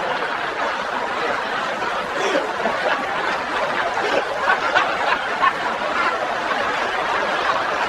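A group of people laughing together in a steady, dense mix of chuckles and laughter.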